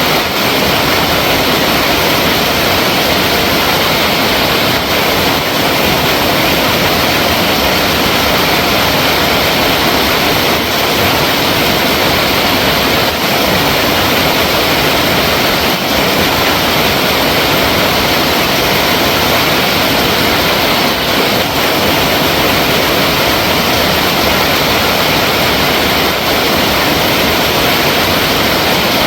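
Flowing water, a loud, steady, unbroken rush.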